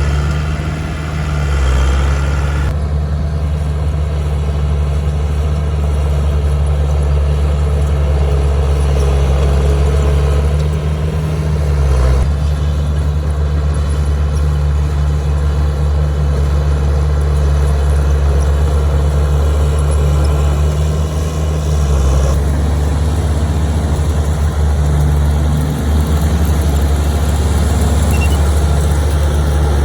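Heavy diesel engine of earthmoving machinery running steadily at a low, even speed. Its sound shifts abruptly a few times, at about 3, 12 and 22 seconds in.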